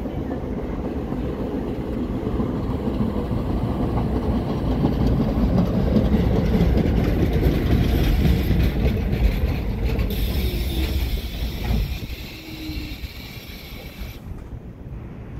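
R44 subway train of the Staten Island Railway pulling into a station, its rumble and wheel clatter growing louder as the cars pass close. In its last few seconds the rumble fades and the brakes give a high squeal as the train slows to a stop.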